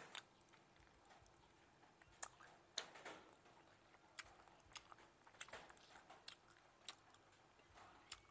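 Close-miked eating of grilled frog: chewing and biting through crisp skin and small bones in scattered sharp clicks and crunches, the loudest a couple of seconds in.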